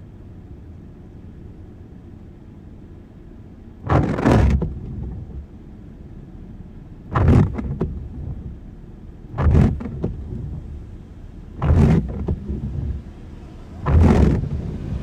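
Windscreen wipers sweeping five times, about every two seconds, over the steady low rumble of a car driving in the rain.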